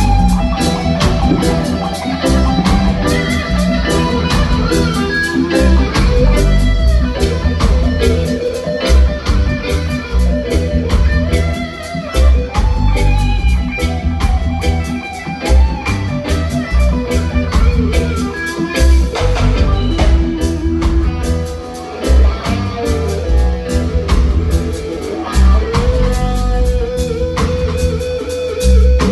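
Reggae band playing an instrumental passage: electric guitar lead lines over a pulsing bass and drums.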